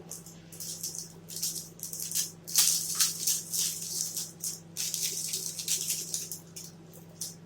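Crinkly plastic wrapper of a protein bar rustling and crackling as it is handled and torn open, in a quick irregular run of crackles that is loudest about halfway through and dies away near the end.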